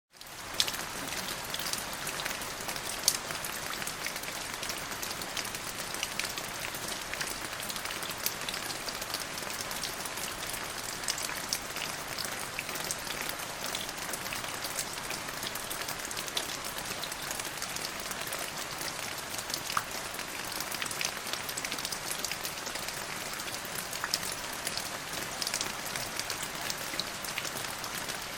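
Steady rain falling, a dense even patter with many sharp individual drop ticks. It fades in quickly at the start.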